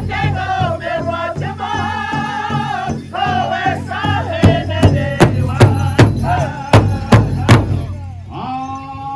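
Powwow drum group singing in high voices over the strokes of a large shared drum, the beats coming about two to three a second and loudest in the middle. The drumming stops near the end while the singers hold a final note.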